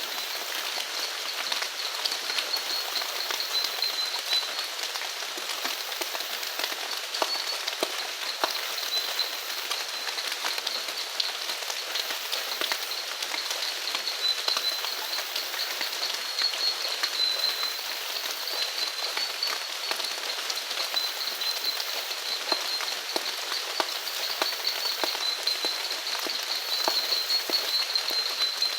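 Steady rain falling, with many separate drops ticking on nearby surfaces. Behind it runs a steady high-pitched chorus of small animals.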